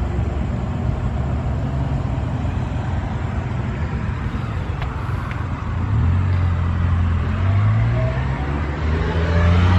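Road traffic: a steady low rumble of passing cars, growing louder about six seconds in as a vehicle's engine comes closer, its note rising near the end.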